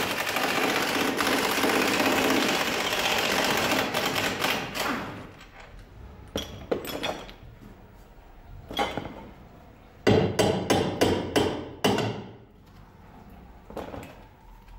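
Workshop sounds: a loud steady hissing or grinding noise for about five seconds, then a series of sharp hammer blows on metal, coming quickly together near the end.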